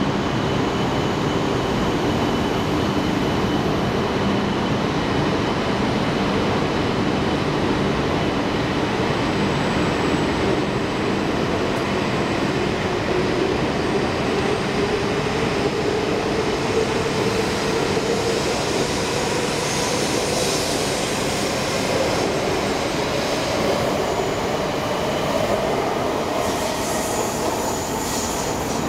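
E5 series Shinkansen pulling out along the platform: a steady rumble of wheels on rail, with a traction-motor whine that slowly rises in pitch as the train gathers speed.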